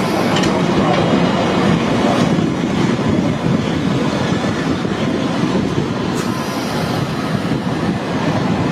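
London Underground Piccadilly line train running along the platform, a loud, steady rumble of wheels on rails and train noise.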